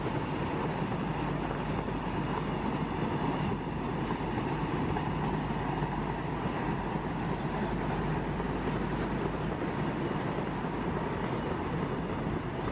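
Freight train of tank wagons rolling past on the track: a steady, continuous noise of wheels on rail.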